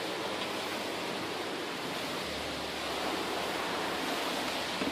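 Extreme storm wind from a tornado blowing steadily, a dense, even rushing noise with no let-up.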